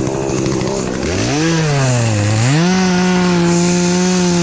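Two-stroke chainsaw running at low revs, then throttled up about a second in: the pitch rises, dips once, and settles into a steady high whine as it cuts wood.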